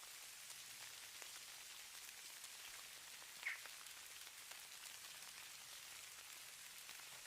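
Falling snow, a faint steady hiss with soft scattered ticks, and one brief louder sound about three and a half seconds in.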